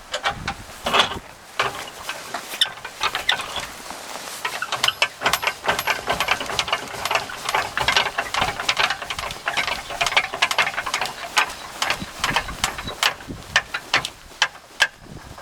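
A run of rapid, irregular clicks and rattles, sparse at first and densest from about four and a half seconds until near the end.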